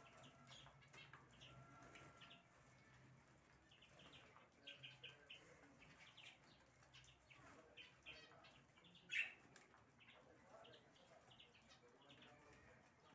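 Small cage birds chirping faintly, many short chirps scattered throughout, with one louder, sharper burst about nine seconds in.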